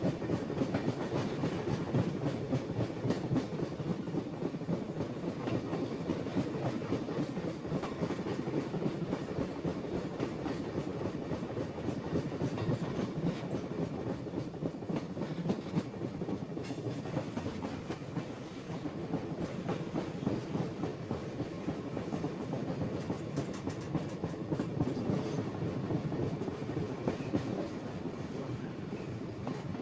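Iron ore train's freight wagons running on the rails, with a steady, dense rattling and clatter.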